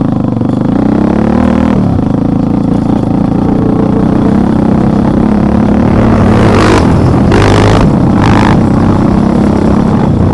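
A vehicle's engine running under way, its pitch rising briefly about a second in as it revs, with three short hissing rushes of noise near the end.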